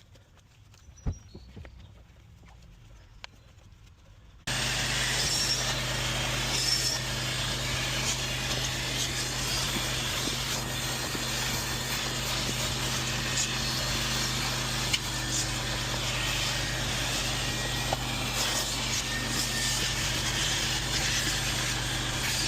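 A quiet stretch with a single click, then, about four and a half seconds in, a machine cuts in abruptly and runs steadily, with a constant low hum under a loud hiss.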